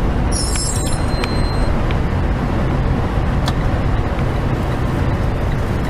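Steady low engine and road rumble inside a moving truck's cab, with a few faint clicks and a brief high-pitched squeak about half a second in.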